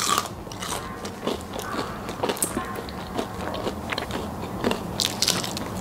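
Close-miked chewing of a crisp pastry pie with a black-bean filling: the crust crackles and crunches between the teeth, with louder crunches at the start and about five seconds in.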